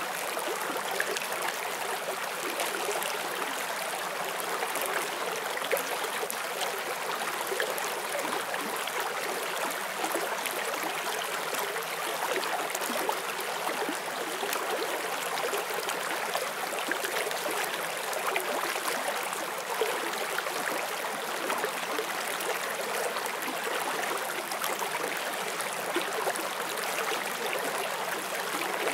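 Shallow forest stream flowing over stones, a steady splashing and burbling rush of water.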